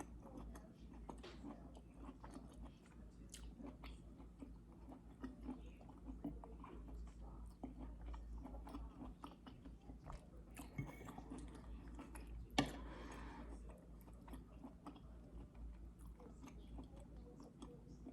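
A person chewing and eating food close to the microphone, with scattered small mouth clicks and smacks and one sharper click about twelve and a half seconds in.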